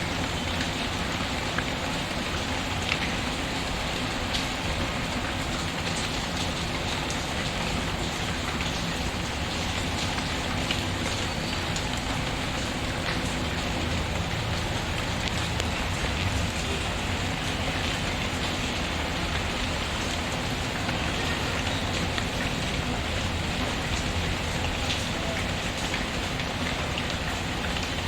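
Steady rain pattering, with scattered small crackles from a fireplace fire mixed in.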